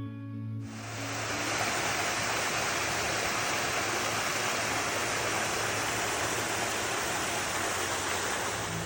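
Waterfall, water pouring and splashing in a steady rushing hiss that cuts in abruptly about half a second in.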